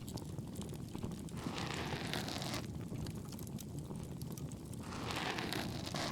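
Ear pick scratching close up inside an ear, in two strokes about a second each, over a steady crackling bonfire.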